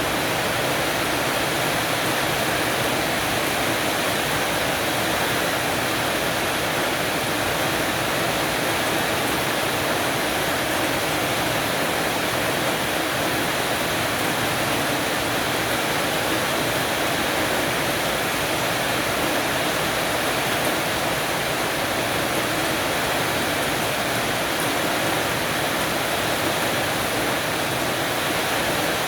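Heavy rain falling steadily on a porch roof, an even downpour hiss with no thunder or separate drops standing out.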